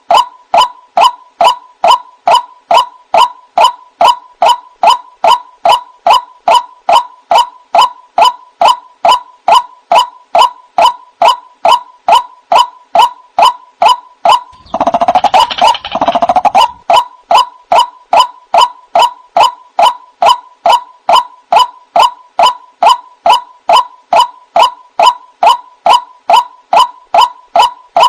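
White-breasted waterhen calling, a steady run of short, loud notes about two a second, each dipping slightly in pitch. About halfway through, a second or two of denser, tangled calling breaks in before the even repetition resumes.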